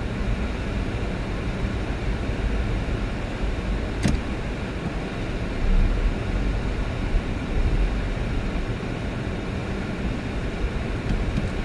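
Steady road noise of a car being driven, with a single click about four seconds in.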